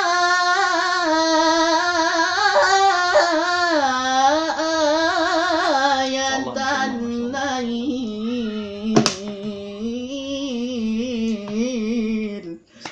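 A single voice reciting the Quran in melodic tajwid style, holding long ornamented notes with wavering runs. About six seconds in it drops to a lower pitch, and it breaks off just before the end. A sharp click sounds about nine seconds in.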